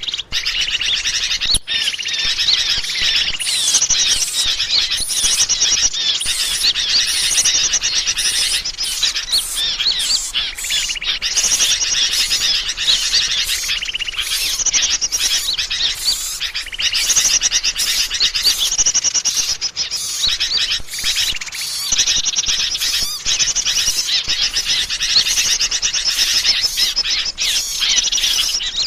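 Dense, continuous chirping and twittering of many small birds at once, a bird-lure (pikat) call recording played to draw wild birds in.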